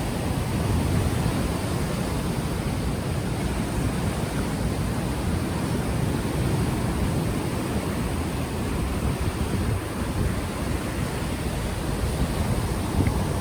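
Ocean waves washing in a steady rush, mixed with wind buffeting the microphone, which has no windscreen.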